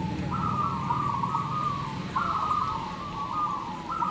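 Several zebra doves (perkutut) cooing, their stuttering runs of short coo notes overlapping, a new phrase starting about every two seconds. A steady low background rumble lies under the calls.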